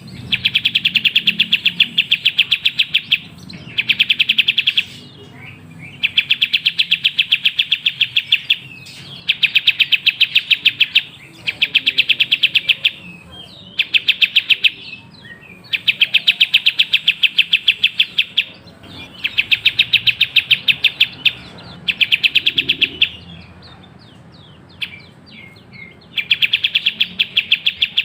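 Kapas tembak songbird singing a rapid, machine-gun-like trill of evenly repeated notes. The trill comes in bursts of one to three seconds, about eight in all, with short chirps between them.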